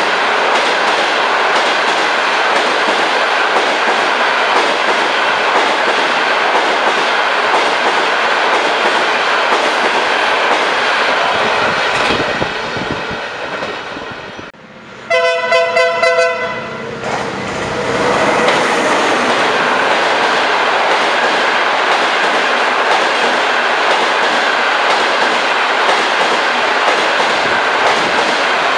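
Long-distance passenger trains running past a station platform: the steady rumble and clatter of the cars fades away about halfway through. A train horn then sounds one chord-like blast of about a second and a half. After it, another passing train's rumble and clatter builds back up and holds steady.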